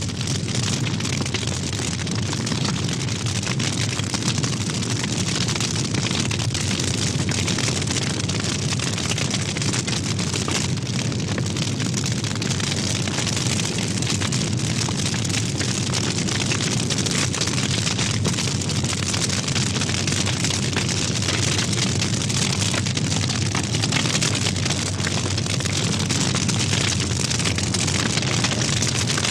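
A forest fire burning: a steady, dense rush of noise with fine crackling throughout.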